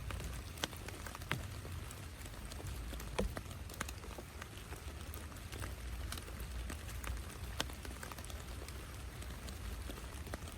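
Steady rain with individual drops tapping sharply at irregular moments, over a low rumble.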